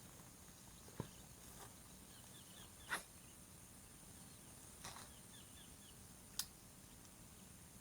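Faint outdoor quiet broken by four brief, sharp swishing clicks a second or two apart, the loudest about three seconds in, with soft little chirps in between.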